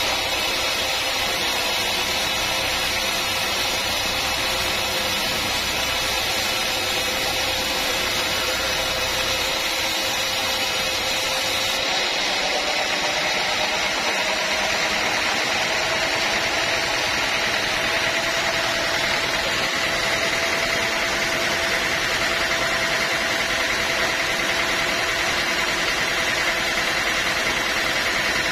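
Sawmill machinery running steadily, with a mechanical hum whose pitch shifts slightly upward about twelve seconds in.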